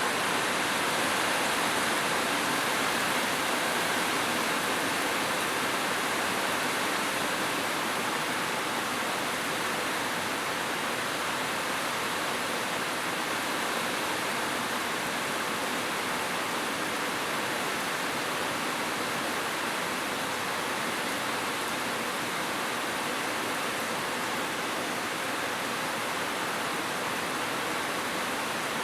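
Heavy rain falling steadily on a roof, an even hiss with no thunder.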